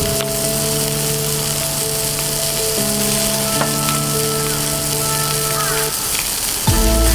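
Beef sizzling as it cooks, a steady hiss, under background music of held notes that change every second or two.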